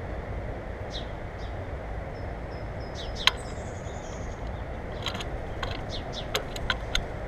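Small songbirds at a feeder giving short, high chirps that slide down in pitch, scattered through, with a few sharp clicks, the loudest a little after three seconds and a quick run of them near the end, over a steady low rumble.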